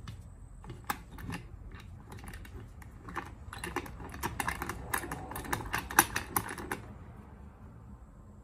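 Quick irregular clicks and scrapes of hand work on a starter solenoid's contact to flatten it level, growing busier and louder around the middle and stopping shortly before the end.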